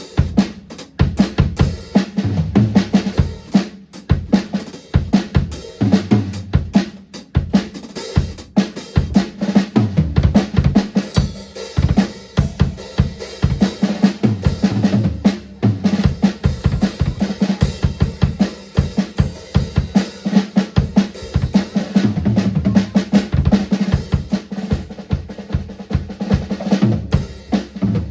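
Drum kit played continuously, with bass drum and snare hits in quick succession.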